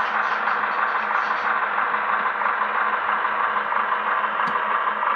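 HO scale Baldwin VO1000 model locomotive's SoundTraxx Tsunami 2 sound decoder playing a steady diesel engine sound through its small speaker while the model moves. A sharp click about four and a half seconds in.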